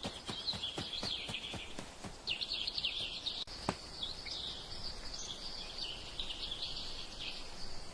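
Small birds chirping and twittering in short clusters over a faint outdoor hiss, with a few soft taps in the first second and a single sharp click about halfway through.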